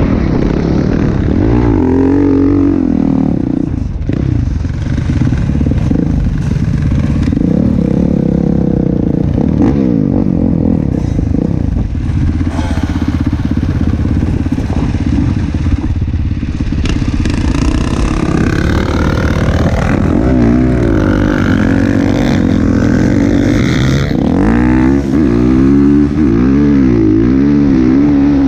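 Motocross dirt bike engine running hard. The pitch rises and falls repeatedly as the throttle is worked, steadier through the middle stretch, with rapid wavering revs near the end.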